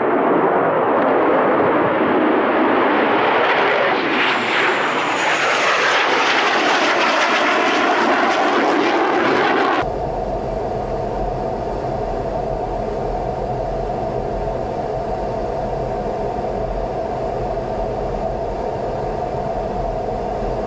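A jet aircraft passing, loud and noisy, its pitch sliding down as it goes by. About ten seconds in it cuts abruptly to a quieter, steady drone with a constant hum.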